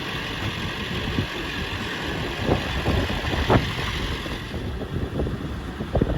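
A vehicle engine running with a steady low rumble and some wind noise. A few short knocks or rattles come about two and a half and three and a half seconds in.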